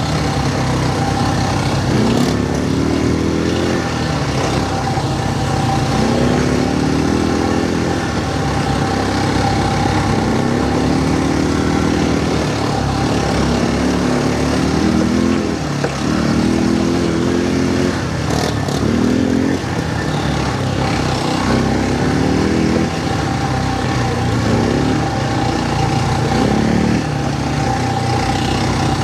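Quad bike engine running under way, its pitch rising and dropping back again every two to three seconds as the throttle is opened and eased off, with a steady high whine and continuous rushing noise under it.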